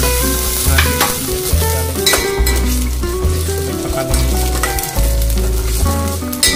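Chopped onion and whole spices sizzling in hot oil in a stainless steel pot, stirred with a metal spoon that scrapes and clinks against the pot. Under it runs background music with a steady, repeating bass line.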